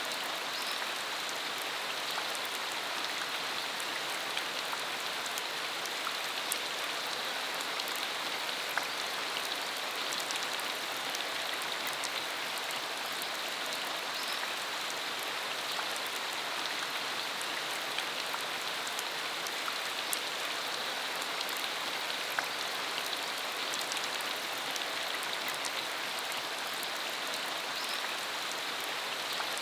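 Steady rain falling on the ground, an even hiss with scattered individual drop ticks.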